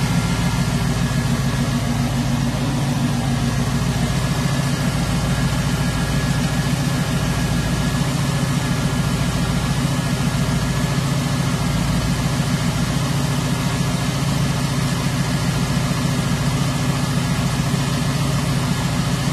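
Carbureted small-block Chevrolet V8 idling steadily at an even, unchanging speed.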